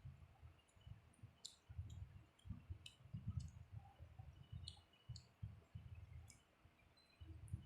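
Faint close-up eating sounds: a person chewing a mouthful of rice and curry, soft low thuds in a steady chewing rhythm about twice a second, with small sharp mouth clicks and smacks scattered through.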